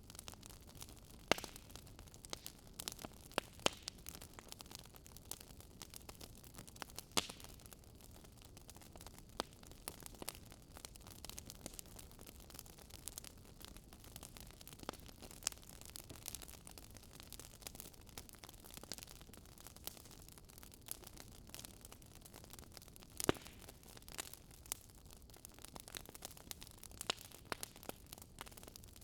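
Wood fire crackling in a fireplace: irregular sharp pops and snaps over a low, steady hiss of burning.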